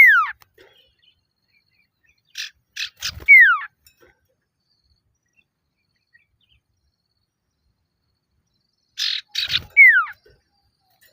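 Male common iora (sirtu/cipoh) calling: phrases of a few short harsh chips ending in one clear whistle that slides down in pitch. The phrase comes three times, several seconds apart. It is the male's challenge call to a rival.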